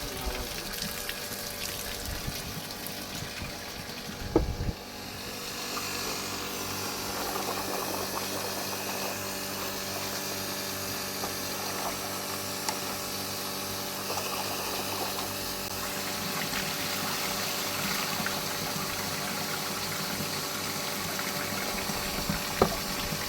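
Splashing water hiss, then a sharp knock about four seconds in, after which a small motor runs steadily with an even hum.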